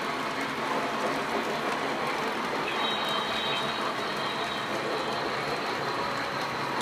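Lionel O-gauge model train running steadily around the track: a continuous rumble of motor and wheels on the rails, with a faint high squeal about halfway through.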